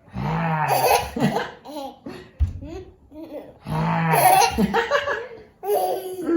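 Adult laughter in three hearty bouts, the second beginning a little under four seconds in.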